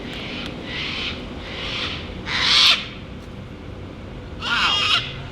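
A parrot screeching, about five hoarse calls, the loudest about two and a half seconds in and another near the end.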